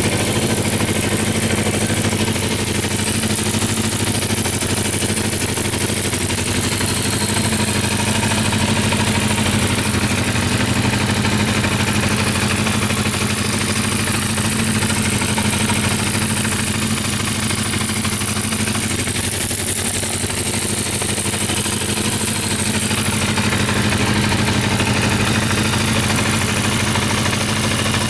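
Honda CB400FOUR's 408cc air-cooled inline-four engine idling steadily.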